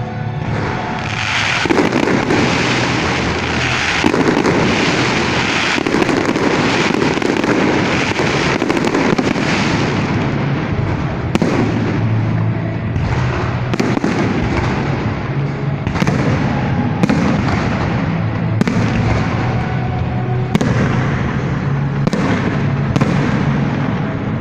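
A fireworks display going off: a dense stretch of crackling bursts for roughly the first ten seconds, then separate sharp bangs about once a second.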